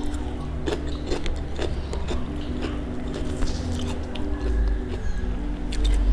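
Close-up eating sounds: a person biting and chewing crunchy food, with scattered sharp crunches, over faint steady low tones.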